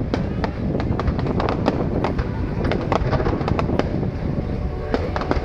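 Aerial fireworks going off: many sharp, irregular bangs and pops, several a second, over a continuous low rumble.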